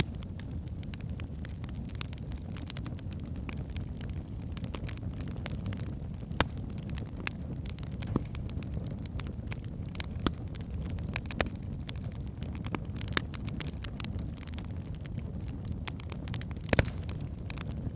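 Wood logs burning in a fireplace: a steady low rumble of flame with frequent sharp crackles and pops, a few of them louder, one stronger pop near the end.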